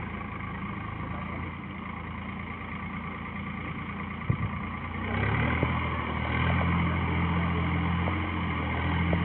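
Swaraj tractor's diesel engine running steadily while ploughing, growing louder about five seconds in, with one sharp click a little past four seconds.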